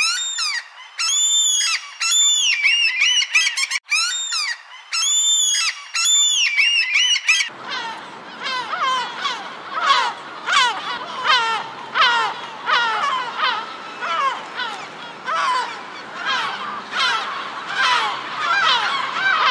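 Gulls calling: repeated rising-and-falling cries, about two a second, for the first seven seconds or so, then a dense chorus of many gulls calling over one another.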